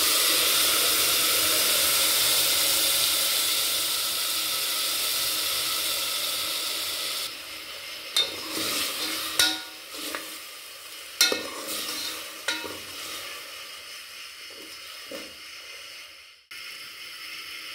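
Wet ground mint paste poured into hot oil in a pressure cooker, sizzling loudly and steadily; after about seven seconds the sizzle is quieter and a metal ladle stirs it, knocking against the pot four or five times.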